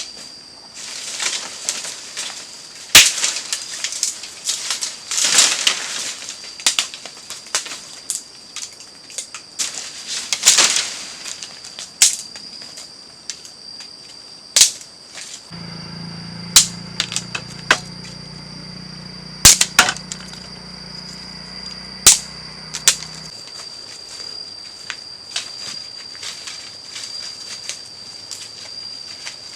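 Irregular sharp snaps and knocks with short rustling, dense in the first half and sparser later, over a steady high-pitched insect drone.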